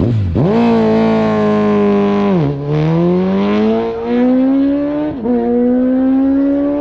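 Racing motorcycle engine pulling hard under acceleration: the revs shoot up at launch, then climb in each gear with two quick upshifts, about two and a half and five seconds in.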